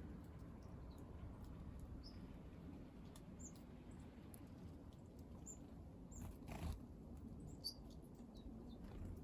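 Small wild birds giving scattered, faint, short high chirps over a low background rumble, with a single soft knock about two-thirds of the way through.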